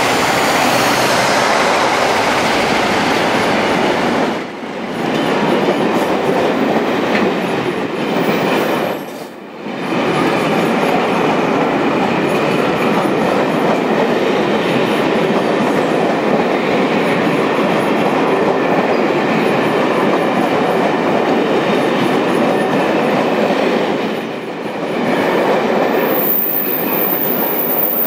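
A diesel-hauled train pulling out, the second of two Class 47 locomotives with its Sulzer engine passing at the start, then the train's coaches rolling steadily past on the rails. The noise is loud and even, with three brief dips along the way.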